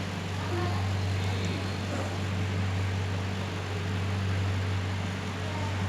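A steady low mechanical hum over a faint even noise.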